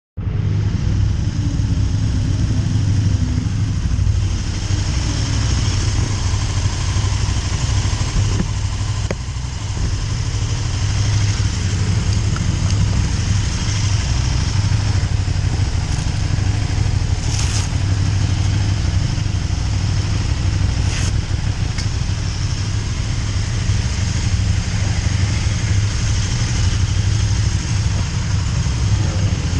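KTM 1290 Super Duke R's V-twin engine running as the bike is ridden on track, heard from the bike under a loud, steady rush of noise with a strong low rumble.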